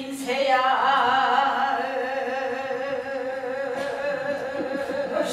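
A Gyeonggi-sori folk singer drawing out the lament "아이고 내 신세야" ("oh, my fate"), holding one long, wavering sung note in Korean japga style.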